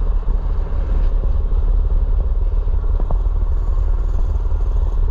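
Mini bike's small engine running steadily under a heavy low rumble, with one short sharp tick about three seconds in.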